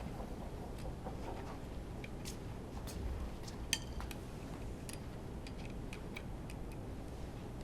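Light metallic clicks and clinks of tools and engine parts being handled during an engine teardown, scattered irregularly, with one brighter ringing clink about three and a half seconds in, over a low steady hum.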